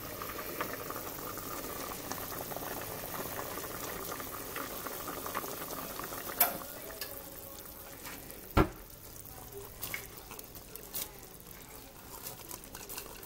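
Pot of roasted-bamboo-shoot and chicken curry bubbling at the boil. Two sharp knocks come about six and a half and eight and a half seconds in, after which the bubbling is quieter, with a few small clicks.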